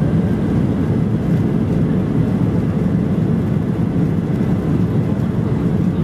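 Steady low rumble of a Boeing 737-800's CFM56 jet engines and airflow, heard from inside the passenger cabin.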